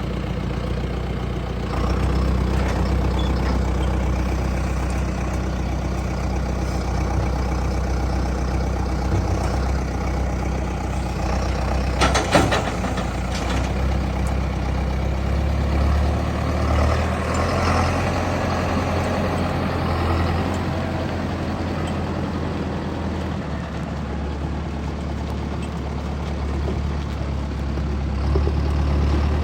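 John Deere 6430 tractor's four-cylinder diesel engine running steadily at idle, its low drone shifting slightly a few times. A brief rattle of clicks about twelve seconds in.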